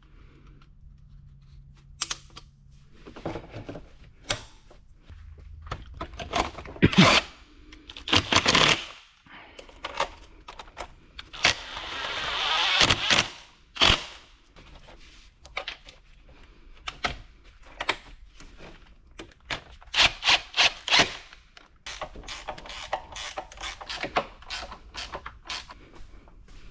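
Tools and metal parts clanking and knocking during truck repair work, with clusters of rapid clicks and a longer noisy rasp about halfway through.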